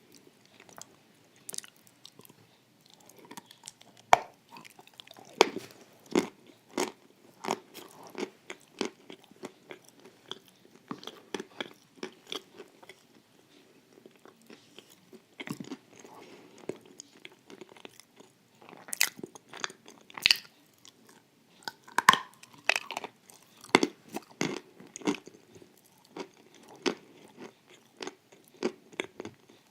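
A person chewing a crunchy wafer-and-cream dessert: wet chewing with many irregular crisp crunches and bites.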